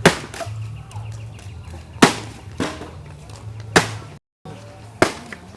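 Sharp knocks of wood on wood, about five irregular strikes a second or so apart, as pieces of firewood are handled for a bonfire, over a low steady hum.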